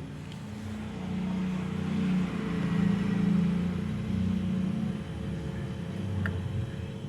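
A low engine rumble that swells over a few seconds and then fades.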